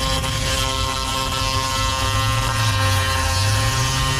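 A machine running steadily with a hum made of several steady tones, its low note rising a little about halfway through.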